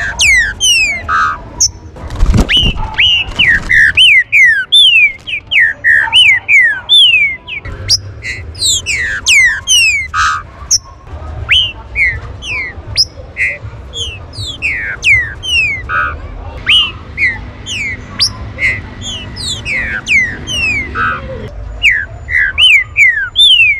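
Green-winged saltators (trinca-ferro) calling: a fast, overlapping run of short, sharply falling whistled notes mixed with a few short harsh notes, as from more than one bird. A low rumble runs underneath, and a single knock comes about two seconds in.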